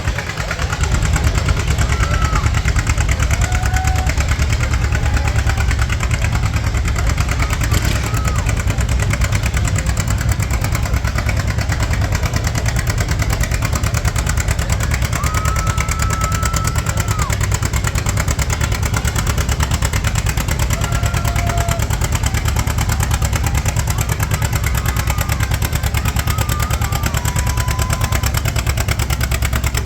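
A pulling tractor's engine running steadily with a low rumble, not revving up or down.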